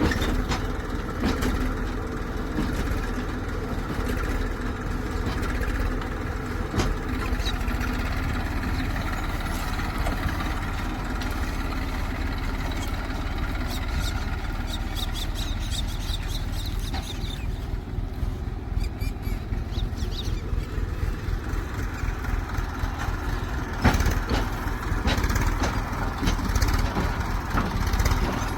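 Diesel engine of heavy machinery running steadily at a low, even speed, with occasional sharp metallic knocks and clanks, several of them close together near the end.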